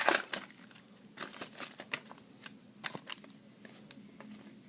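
Panini Prestige football trading cards being handled and slid off a freshly opened stack one at a time: a brief rustle at the start, then a series of light, sharp clicks.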